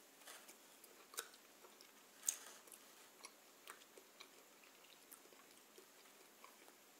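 A cheese baguette being bitten into and chewed close to the microphone, giving a few short crisp crunches and mouth clicks. The loudest comes about two seconds in.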